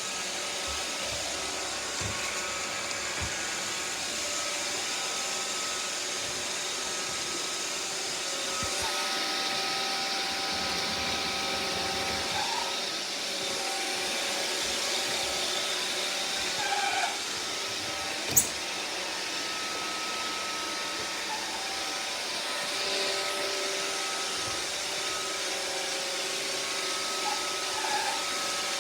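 Roomba robot vacuum running: a steady whir of its motors and brushes with a few whining tones, and one sharp click about eighteen seconds in.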